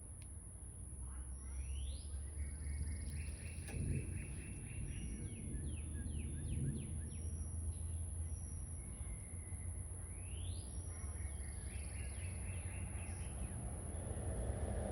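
A songbird singing outdoors: two similar song phrases about nine seconds apart, each a quick rising sweep followed by a fast run of repeated notes. A low steady rumble and a constant high-pitched tone lie under it, and near the end a rushing noise swells up, as of an approaching vehicle.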